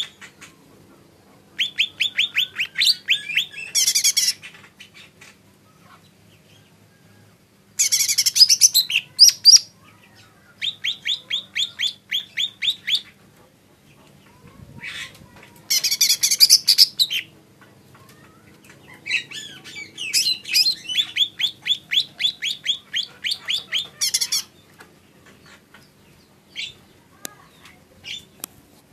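Cucak ijo mini singing in five bouts of rapid, evenly repeated high chip notes, mixed with harsher, higher chattering phrases, with short pauses between bouts and a few lone notes near the end.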